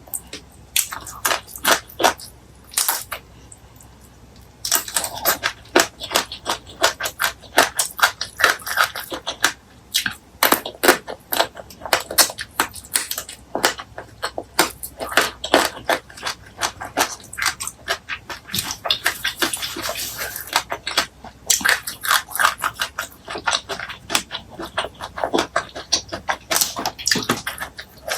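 Close-miked eating sounds of a meal of fried fish, chili sauce, pumpkin leaves and rice: steady chewing with many wet mouth clicks and smacks, pausing briefly about three seconds in.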